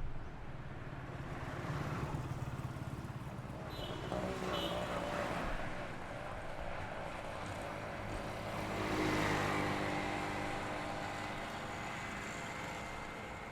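Highway traffic passing by: vehicles swell and fade one after another, the loudest passing about nine seconds in with its engine pitch falling as it goes by.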